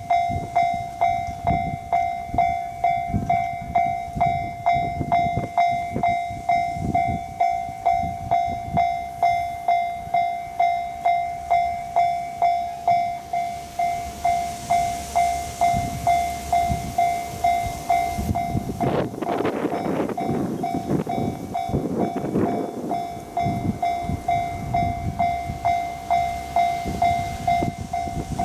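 Level-crossing warning bell ringing on and on, about one and a half strikes a second, as an E353 series limited express train passes. The train's rush swells about two thirds of the way in, with wind on the microphone.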